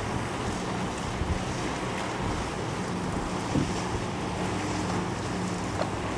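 Wind buffeting the microphone over the wash of water around a small sailboat, with a low steady hum underneath and a few light knocks.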